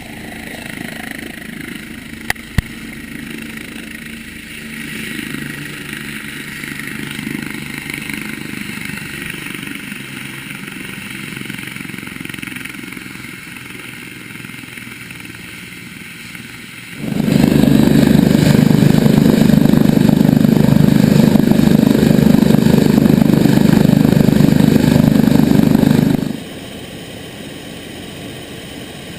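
Helicopter running steadily. Two short clicks come a couple of seconds in. From just past halfway it jumps to a much louder, rougher rushing noise for about nine seconds, then drops back to the earlier level.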